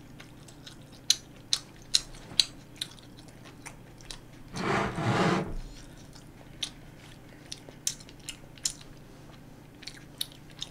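Close-miked chewing of soft food, with many short wet mouth clicks and smacks. About halfway through comes a louder breathy sound lasting about a second.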